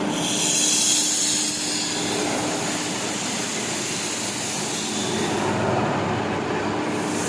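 Steam locomotive hissing steam with its running noise; the high hiss swells in the first two seconds and again at the very end.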